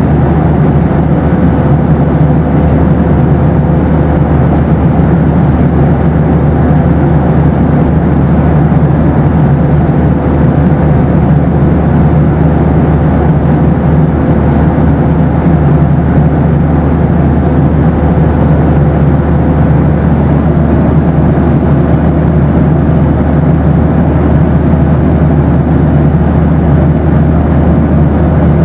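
Steady cabin roar of a Boeing 737 in flight: engine and airflow noise with a low hum and a faint steady tone, unchanging throughout.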